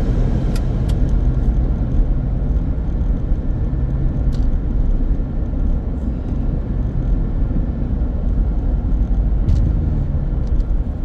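Steady low road rumble inside a small car cruising at about 50 mph, engine and tyre noise through the cabin, with a few faint ticks.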